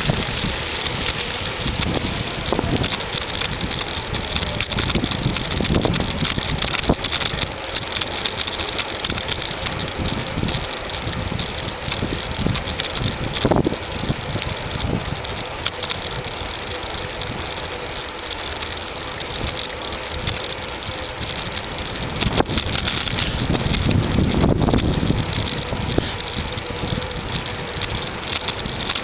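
Bicycle riding noise picked up through a compact camera clamped to the bike: a steady rush of wind and tyre noise, with scattered knocks and rattles from bumps in the path.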